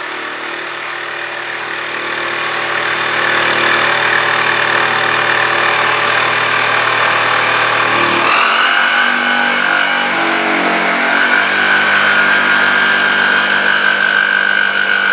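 Electric power saw running steadily while cutting a seat blank out of plywood; its pitch steps up about eight seconds in.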